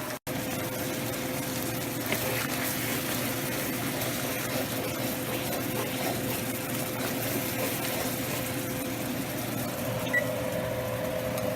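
Steady hum of a kitchen exhaust fan running, with a faint hiss of chicken pieces frying in the pan. A short high blip sounds near the end.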